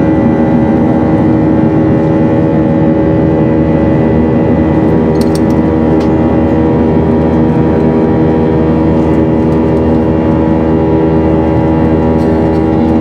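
Airbus A319 jet engines and airflow heard from inside the passenger cabin in flight: a loud, steady drone with several even hum tones and a thin high whine over a constant rush of air. A few faint clicks come about five seconds in.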